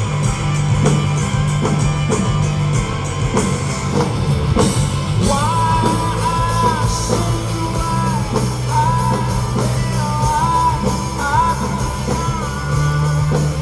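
Rock band playing live: drum kit, bass and electric guitar, with a held, gliding melody line coming in over them about five seconds in.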